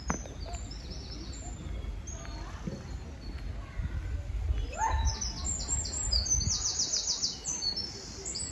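Small songbirds chirping, with a fast high trill over a low steady outdoor rumble, and a single sharp click at the start.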